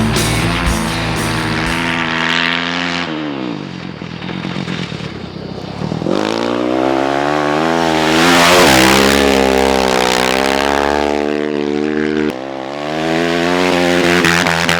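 Motorcycle engine revving hard under acceleration. Its pitch climbs and drops back several times, with sudden dips around the middle and near the end.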